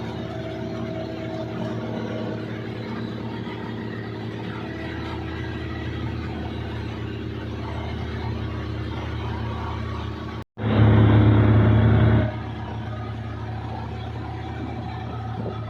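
Combine harvester's diesel engine running steadily with a low hum. About ten and a half seconds in, the sound breaks off for an instant and returns much louder for about a second and a half, then settles back to the earlier level.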